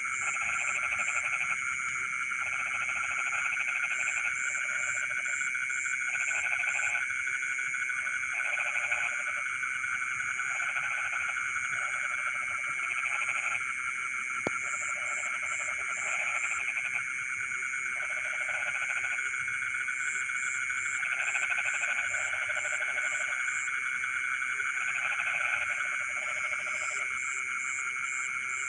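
A chorus of frogs calling, layered over a steady high trilling drone. Lower rattling calls come in bouts of about a second, again and again, along with short bursts of high chirps. There is one faint click about halfway through.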